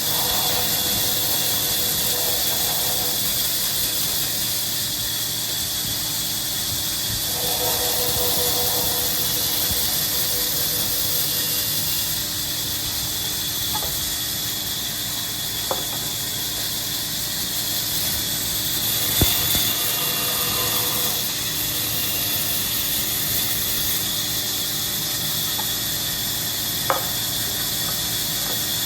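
Steady, loud hiss, with a few sharp knocks: one in the middle, the loudest just after, and one near the end.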